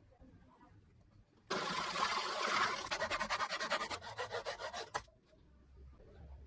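Sanding: abrasive paper rasping against a surface. It starts suddenly, settles into fast even pulses partway through, and stops abruptly.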